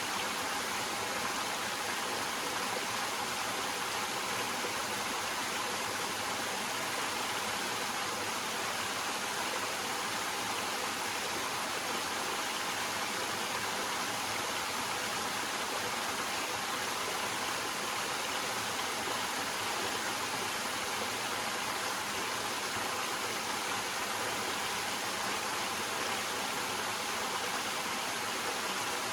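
Small waterfall cascading over rocks: a steady, unbroken rush of water.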